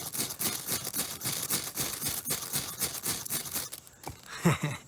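Fire steel (ferro rod) scraped rapidly and over and over, throwing sparks onto tinder mixed with magnesium shavings. The scraping stops about four seconds in.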